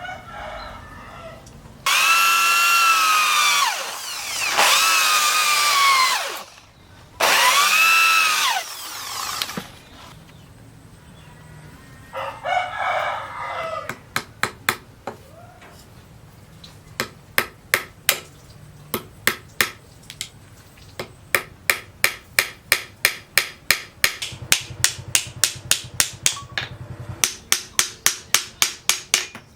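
A rooster crows three times in quick succession. From about halfway through, a hammer strikes metal in a steady rhythm that quickens to two or three blows a second.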